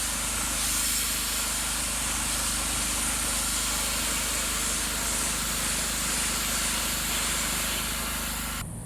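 Gas pressure washer with a Briggs & Stratton engine running steadily under the hiss of its high-pressure water spray. The sound stops abruptly near the end.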